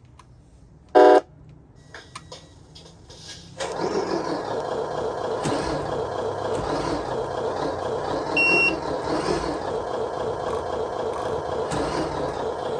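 RC truck sound module playing through its small speaker: a short loud electronic beep, then a simulated truck engine starts about three and a half seconds in and runs steadily, with a brief high beep about midway.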